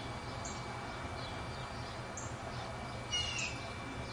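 Back-yard ambience: a bird gives a short chirping call about three seconds in, with a few faint high chirps scattered around it over a steady low background noise.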